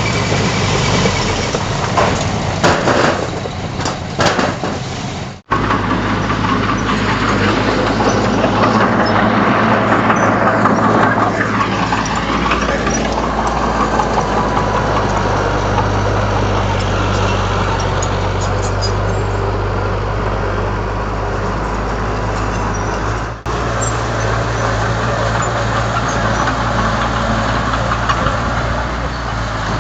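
Heavy diesel earthmoving machinery running steadily under load, with metallic clanks in the first few seconds. The sound breaks off abruptly about five seconds in and again near the end, where the footage is cut.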